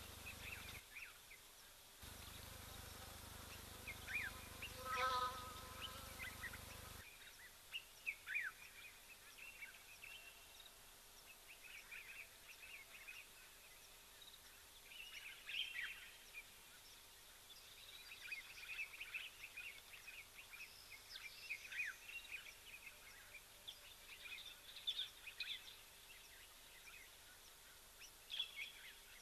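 Wild birds chirping and calling, faint, with many short quick chirps throughout and one louder, fuller call about five seconds in.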